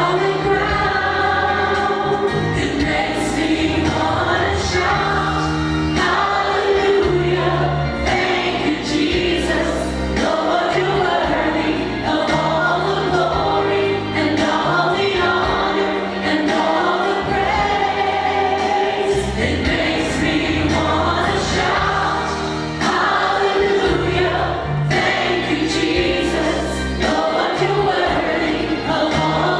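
Choir singing a gospel worship song over instrumental accompaniment with a bass line.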